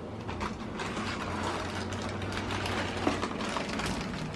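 Dry Cheerios rattling and crackling in their cardboard box as the box is tipped for pouring, a dense run of small clicks. A faint low hum stops about three seconds in.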